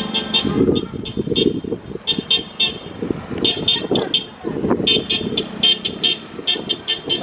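Tractor and lorry engines running as vehicles pass, with many short horn toots sounding again and again over the rumble.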